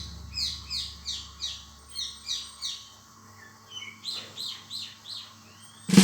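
Small birds chirping: a quick run of high, falling chirps about three a second, then after a short gap a few more varied chirps.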